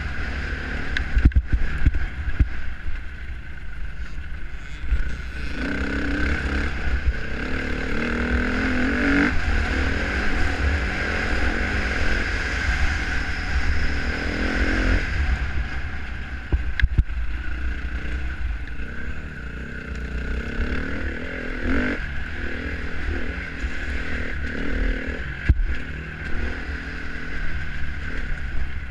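Dirt bike engine revving up and down through the gears, its pitch climbing hardest in the middle stretch. Heavy wind rumble on the microphone runs under it, with scattered sharp knocks.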